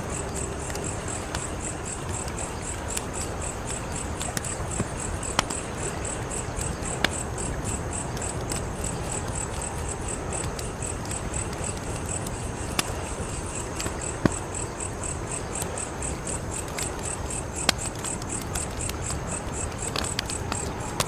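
Wood fire crackling, with scattered sharp pops over a steady low rush, while crickets chirp in a fast, even pulse throughout.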